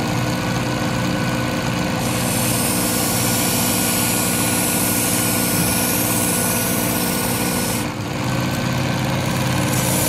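Work Sharp Ken Onion Edition belt sharpener's motor running steadily, turned up in speed. A kitchen knife blade is drawn across the abrasive belt, making a hissing grind that starts about two seconds in, breaks off briefly near eight seconds and resumes near the end.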